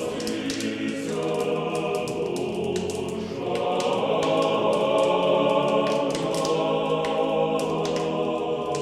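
A choir singing slow, held chords without accompaniment, in the manner of Orthodox church chant, with the chords changing a couple of times.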